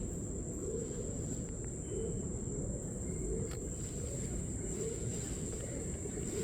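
Insects droning in one steady, high-pitched tone, over a continuous low rushing background noise.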